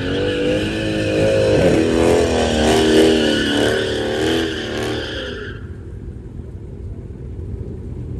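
A car's engine revving hard with tyres squealing, as in a burnout. The squeal and revving cut off about five and a half seconds in, leaving a low engine rumble.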